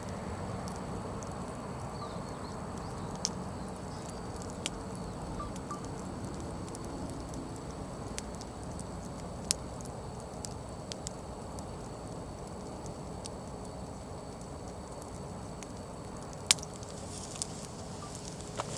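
Wood fire burning with a steady low rush, with sharp crackles and pops from the burning firewood every few seconds. The loudest pop comes near the end.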